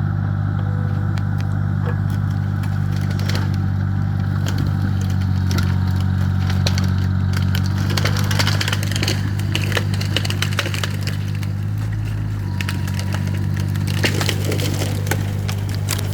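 A machine's engine runs steadily while wood cracks, snaps and splinters in many sharp crackles, thickest in the second half: a tree being pushed over with its root ball, roots tearing as it goes.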